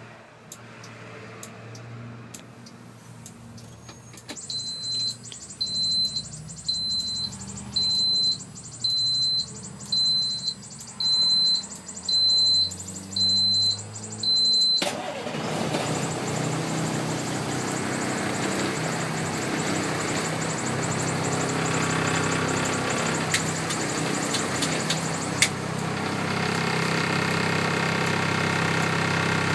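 1993 International 4900 dump truck's DT466 diesel engine being started. A high-pitched warning buzzer beeps about once a second, about ten times, and stops as the engine fires about halfway through. The engine then settles into a steady idle.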